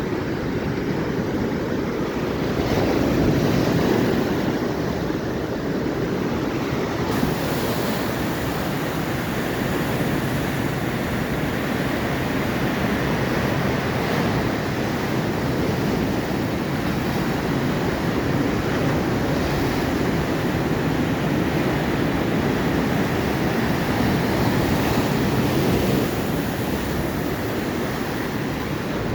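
Atlantic surf: waves breaking and washing ashore in a steady rush that swells and eases, with wind rumbling on the microphone.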